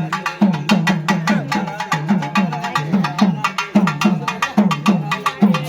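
Percussion music with a steady beat: a deep pitched drum struck about two to three times a second under sharp, clattering strokes.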